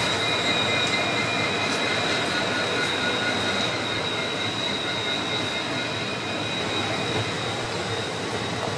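Indian Railways passenger train running, heard from an open coach window: a steady rush and rumble of wheels on track, with a high-pitched whine over it that fades out about seven seconds in.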